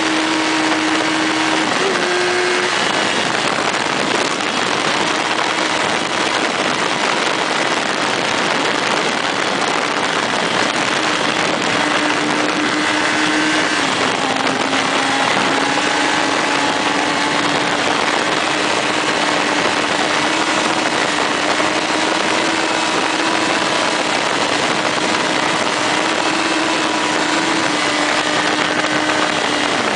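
Motorcycle running at a steady cruise. Its engine note holds steady with small shifts in pitch under a constant rush of wind on the microphone.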